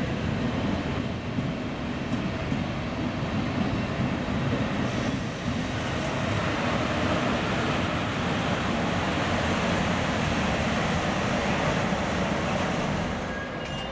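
A train of regional passenger coaches hauled by an electric locomotive rolling slowly past, with the steady running noise of its wheels on the rails. The sound eases off a little near the end.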